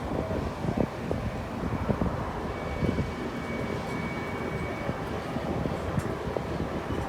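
Open-air park tram under way: a steady low rumble of engine and tyres with frequent rattling knocks from the cars. A faint steady whine sits in the middle of it.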